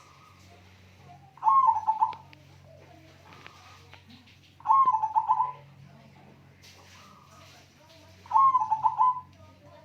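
Zebra dove (perkutut) singing its cooing song three times, about three and a half seconds apart; each phrase lasts about a second, an opening note followed by a quick run of coos.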